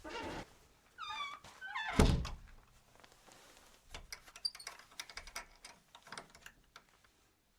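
Two short animal calls that glide up and down, about a second in, then a loud single thunk at about two seconds, followed by scattered light clicks and knocks that die away.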